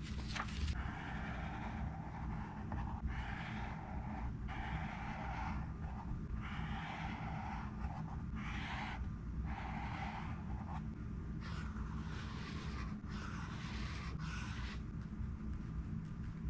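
About nine long strokes of a highlighter dragged across a book page, each about a second long and separated by short pauses. A steady low hum runs underneath.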